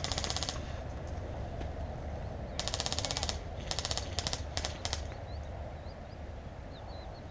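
Airsoft electric guns firing on full auto: a burst that ends about half a second in, a longer burst near three seconds, then several short bursts in quick succession, each a fast even rattle of shots.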